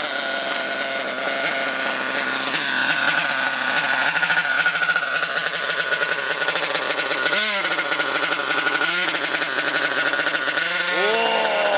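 Small nitro engine of a CEN Genesis GST 7.7 RC monster truck running at high revs with a high-pitched buzz, its revs dipping and climbing back twice about seven and nine seconds in, then revving up and down near the end.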